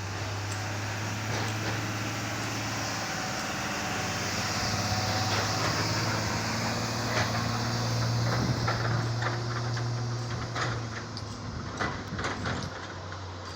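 Heavy diesel engine of a Volvo 750 excavator running steadily and working harder for a few seconds in the middle, while hardcore rock scrapes and knocks against steel in a series of sharp clanks through the second half.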